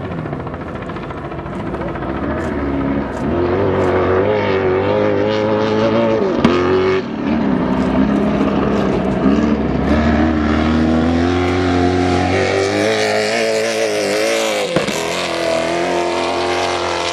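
Stadium Super Truck race trucks' engines revving hard, the pitch rising and falling over and over as the drivers work the throttle, louder from about three seconds in.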